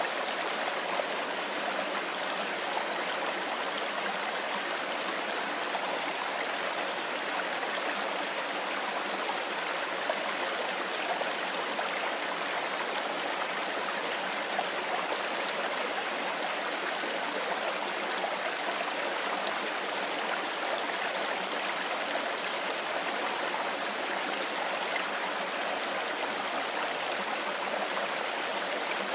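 Mountain forest river running: a steady, unbroken rush of water, more hiss than deep rumble.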